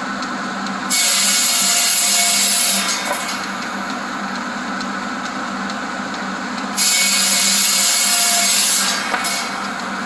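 Buzz saw driven by a Willys truck, running steadily and cutting twice through old wooden fence boards. Each cut is a loud, harsh rasp about two seconds long that starts sharply, the first about a second in and the second about seven seconds in, and tails off as the blade comes through.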